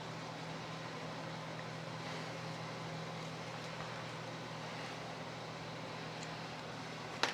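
Steady low machine hum with an even hiss, and one sharp metallic click near the end.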